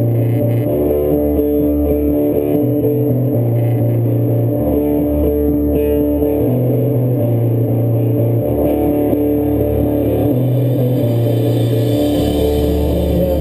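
Live band music led by guitar over a bass line that switches between two low notes about every two seconds, at a steady loud level.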